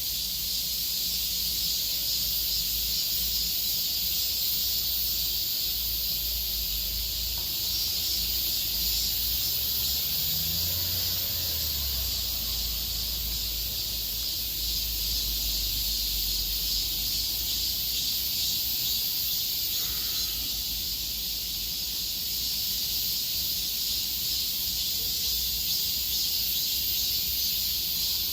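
Insect chorus: a steady, shrill, fast-pulsing trill, with a low rumble underneath.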